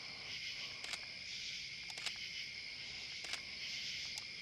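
Steady insect chorus, a continuous high-pitched drone, with a few light clicks about one, two and three seconds in.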